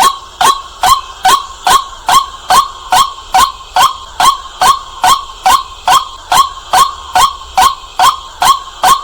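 White-breasted waterhen calling: a loud, steady run of short, harsh 'kwak' notes, evenly spaced at about two and a half a second.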